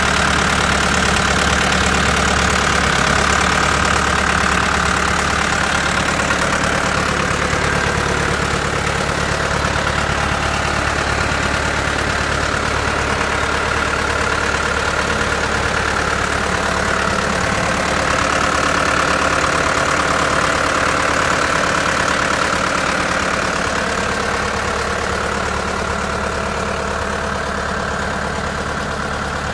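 Deutz four-cylinder air-cooled diesel engine of a 1995 AGCO Allis 6690 tractor running steadily at idle, easing slightly quieter near the end.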